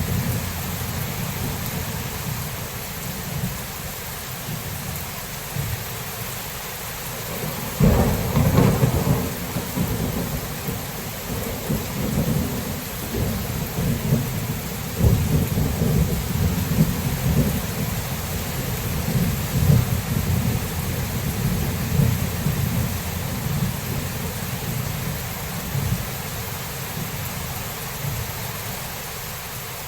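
Thunderstorm: steady rain hiss under rolling thunder. A loud thunderclap breaks about a quarter of the way in and rumbles on in swells, dying down toward the end.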